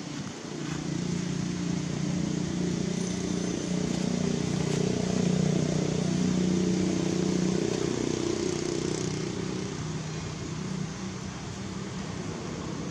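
A motor vehicle's engine running, growing louder and then fading away over several seconds as it passes.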